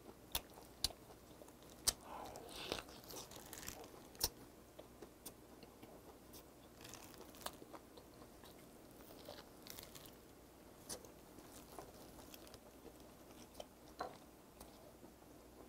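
A person biting into and chewing a whole braised pork hock (jokbal). Faint wet mouth sounds with scattered sharp clicks and smacks, a few of them close together in the first four seconds.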